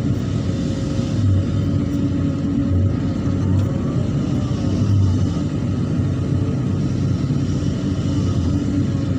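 Hydraulic excavator's diesel engine running steadily under load, its low rumble swelling several times.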